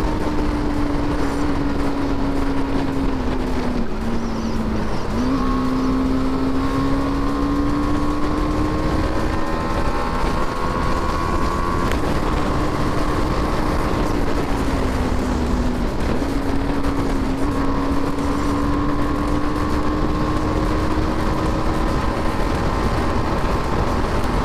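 BMW G 310 R's single-cylinder engine running hard at high speed, its note climbing slowly, over a steady rushing noise. About four seconds in and again about sixteen seconds in, the pitch sags briefly and picks back up.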